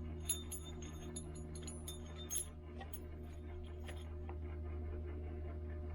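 Small metal lathe parts clinking and clicking as they are handled, with two sharper ringing clinks about a third of a second and two and a quarter seconds in, over a steady low hum.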